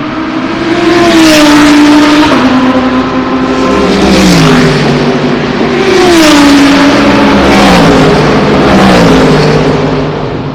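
GT race car engines running hard on track, loud throughout, their pitch dropping in steps several times before fading near the end.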